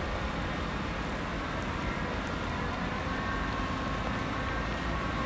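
ÖBB Railjet Xpress train arriving at the platform: a steady rumble from its wheels and running gear, with faint whining tones coming in about two seconds in.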